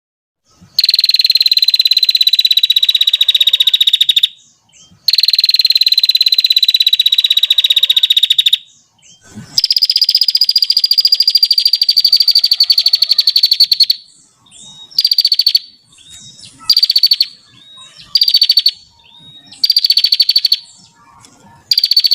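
Small songbird singing in long, rapid, high trills of about four seconds each, three in a row, then a string of shorter trill bursts about a second long.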